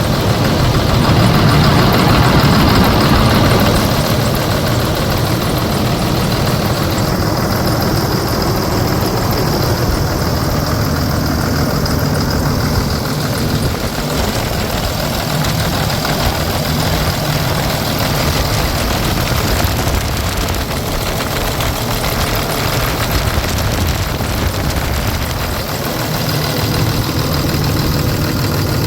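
Cummins ISB 6.7 turbo-diesel inline-six running at idle, slightly louder in the first few seconds and then steady.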